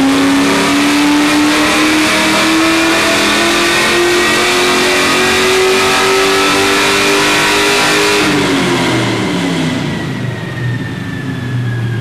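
Pontiac GTO's V8 pulling at full throttle on a chassis dyno, revs climbing steadily for about eight seconds. Then the throttle is lifted and the engine winds down, with a high whine falling away as the rollers slow.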